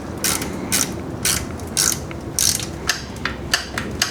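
Ratchet wrench tightening a bolt on a bicycle rack mount: short bursts of pawl clicking, roughly two a second, as the handle is swung back and forth.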